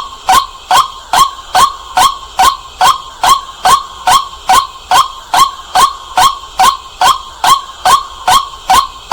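White-breasted waterhen calling at night: a loud, clear, even run of short 'kwak' notes, a little over two a second.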